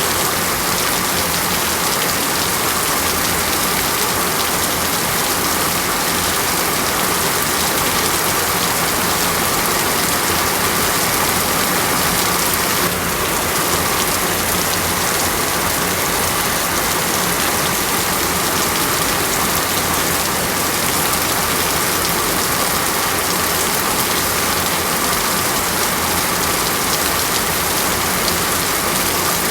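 Steady heavy rain falling on foliage and ground, a dense, even hiss without let-up.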